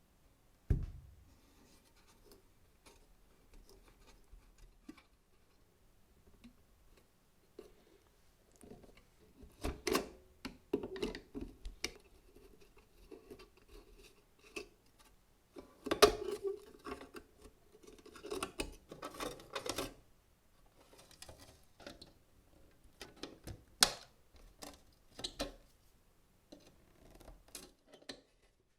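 Workbench handling of old metal parts: irregular clicks, scrapes and rubbing, broken by sharp knocks about a second in, near the middle and again a few seconds later.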